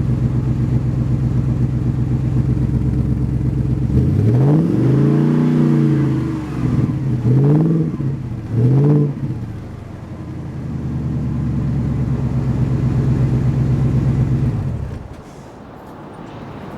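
A 2013 Ford F-250's 6.2-litre gasoline V8 running through a Magnaflow exhaust: idling steadily, then revved three times, each rev rising and falling, then back to idle and shut off near the end.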